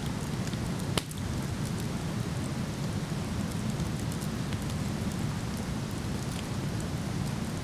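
A waterfall rushing steadily, with a wood fire crackling over it in small sharp pops and one loud crack about a second in.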